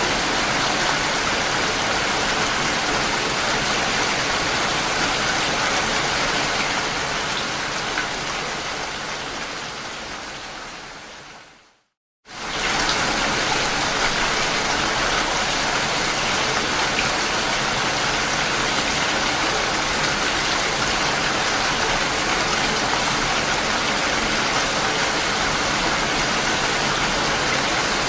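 Steady rain falling. About halfway through, the sound fades away to silence and then cuts straight back in, the join where the rain recording loops.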